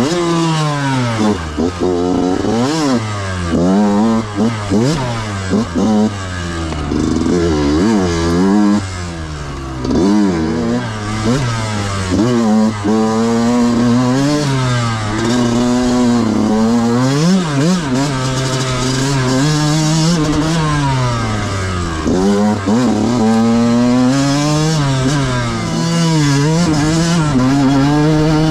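Yamaha YZ125 two-stroke dirt bike engine being ridden hard on a trail, the revs rising and falling again and again every second or two as the throttle is opened and chopped through the gears.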